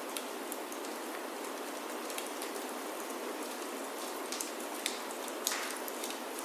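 Steady rain falling on the roof of a wooden chalet, with a few sharp clicks scattered through it, the loudest about five and a half seconds in.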